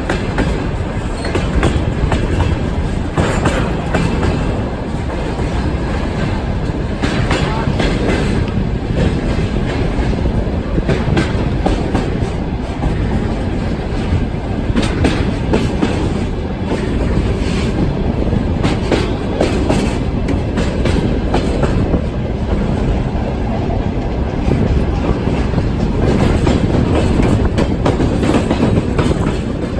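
Freight train rolling along, heard from inside one of its wagons: a steady loud rumble with irregular clatter and knocks of the wheels over the rails.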